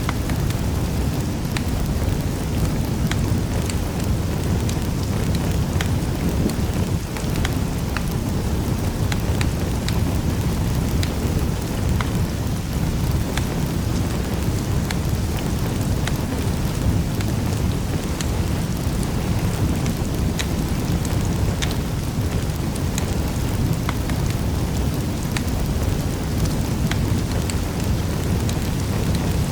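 Fire in a fireplace crackling, with sharp pops scattered irregularly over a steady low rumble of the flames.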